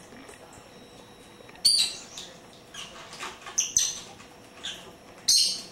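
Pet birds giving short, sharp high-pitched chirps and squeaks, about half a dozen in all, the loudest about two seconds in and near the end.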